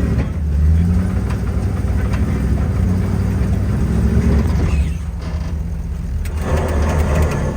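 Engine of a big-tyred rock-crawling off-road truck running at low revs with a heavy, steady note, rising briefly about a second in.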